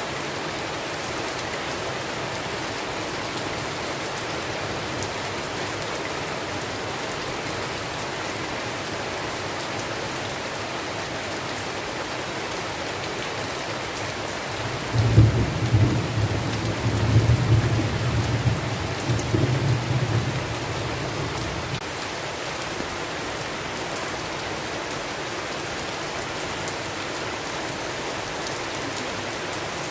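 Steady heavy rain falling, with a rolling peal of thunder about halfway through that rumbles in several swells for some seven seconds before fading back into the rain.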